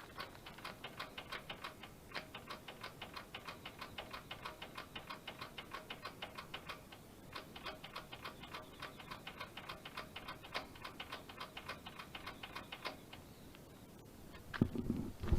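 Old Mitsubishi Katsura diesel tiller engine running with an even ticking clatter, about five beats a second, that stops a couple of seconds before the end. A few low thumps follow near the end.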